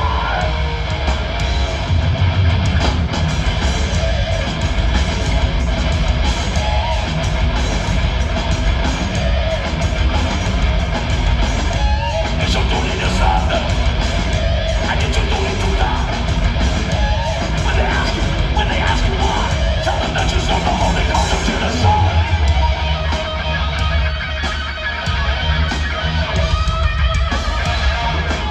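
Live heavy metal band playing loud, with distorted electric guitars, bass and drums, as heard through a phone's microphone in the crowd. Yelled vocals come in at points.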